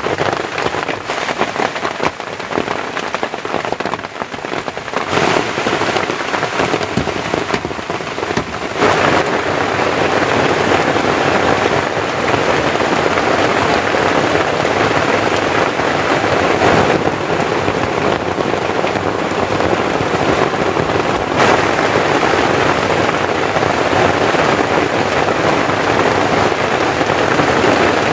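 Heavy tropical rain pouring steadily, growing heavier about nine seconds in.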